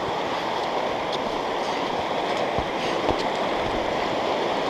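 River water rushing steadily, with a couple of soft knocks about two and a half and three seconds in.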